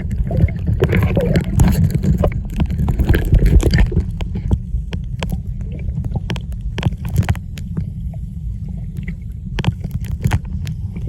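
Muffled sound of moving seawater picked up by an iPhone sealed in a polythene underwater pouch and held under the surface: a dull low rumble with scattered sharp clicks and crackles, busier in the first four seconds.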